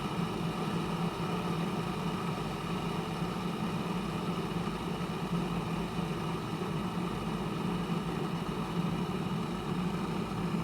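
Glass electric kettle heating water close to the boil: a steady low rumble and hiss as bubbles form in the water.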